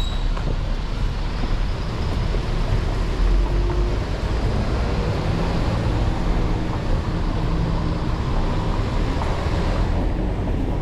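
Street traffic: a motor vehicle's engine running close by, a steady low drone under road noise, easing off near the end.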